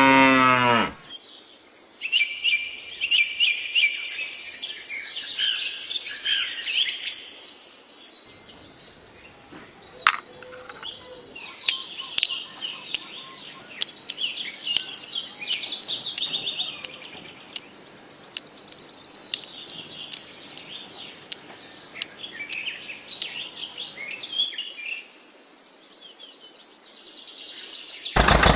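Small birds chirping in repeated bursts, with a run of light, sharp clicks through the middle stretch.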